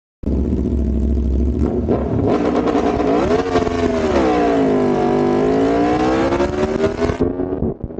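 Motorcycle engine running hard, its pitch rising briefly about three seconds in, then sinking and climbing again before cutting off near the end.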